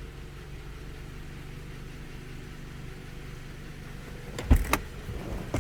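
Kia Sportage's G4KD 2.0-litre inline-four petrol engine idling steadily at a low idle. This engine knocks at low mileage before repair. About four and a half seconds in there is a brief, louder clatter.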